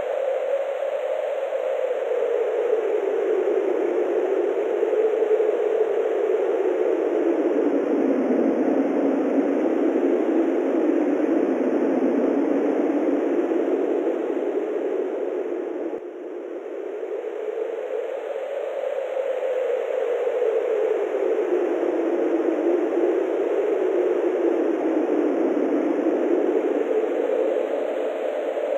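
Wind blowing steadily: a whooshing noise whose pitch slowly sinks and rises again, with a brief dip in level about halfway through.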